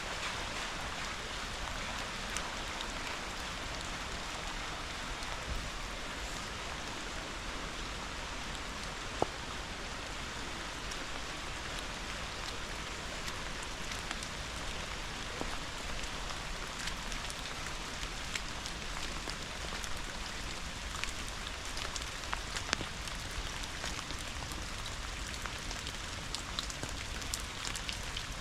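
Rain falling steadily as an even hiss, with scattered individual raindrops tapping close by.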